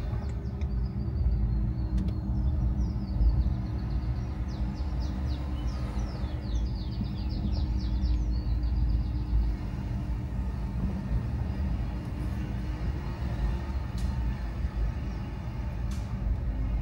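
Car driving: a steady low rumble of engine and tyres, with a faint engine hum that slowly falls in pitch. A run of faint, quick high chirps sounds through the first half.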